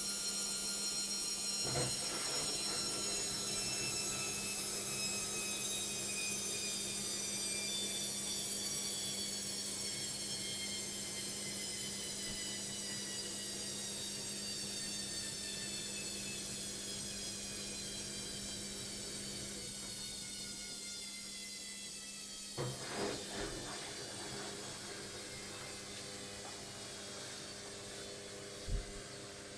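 LOGIK washing machine in its final spin, the motor's high whine falling steadily in pitch and getting quieter as the drum slows down, over a low steady hum. A few light clicks and knocks come from the machine partway through, and there is one low thump near the end.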